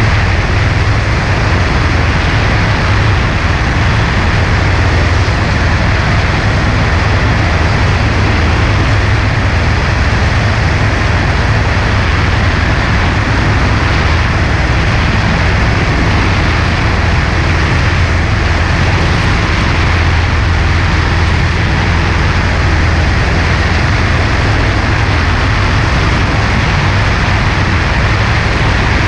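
Cessna 140A's piston engine and propeller running steadily in flight, a constant low drone under an even hiss of rushing air.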